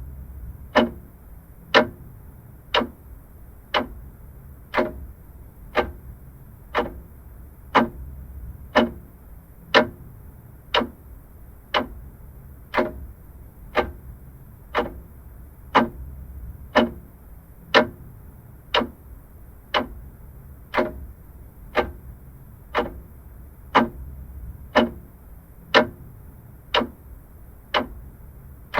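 Vintage clock ticking steadily, about one tick a second, each tick a sharp click, over a faint low hum.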